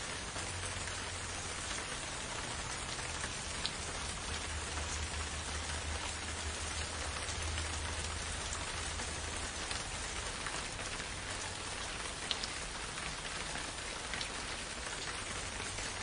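Steady rain falling, with a few louder single drops ticking close by and a low rumble underneath.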